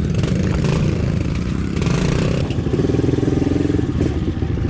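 Small pit bike engine running, its pitch shifting up and down.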